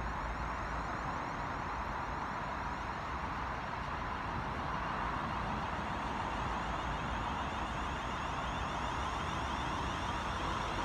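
Steady rushing noise of a train running on the line, with a constant hum, growing slightly louder in the second half.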